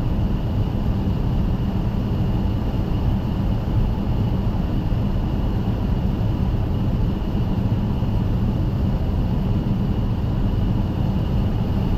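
Boeing 757 cockpit noise while rolling on the ground after landing: a steady low rumble with a thin, steady high whine over it.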